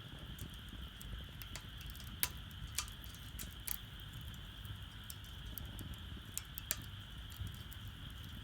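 Wood fire crackling in a Solo Stove Campfire fire pit, with irregular sharp pops and ticks over a low steady burning rumble.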